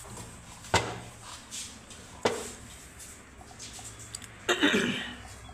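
Two sharp clicks about a second and a half apart, like equipment being handled on a workbench, over a faint steady hum.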